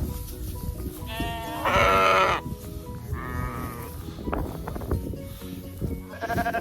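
Sheep bleating four times, the loudest and longest call about two seconds in and another near the end.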